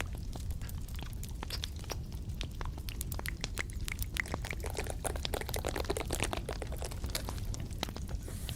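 Close-miked crackling: many quick, irregular sharp clicks and crackles, with a softer rustle about five seconds in.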